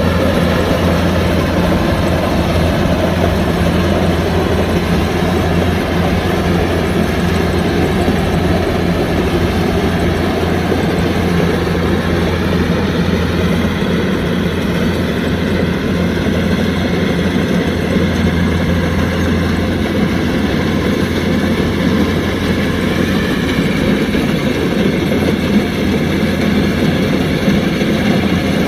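Kubota DC-105X combine harvester's engine running steadily, with a strong low hum that eases slightly near the end.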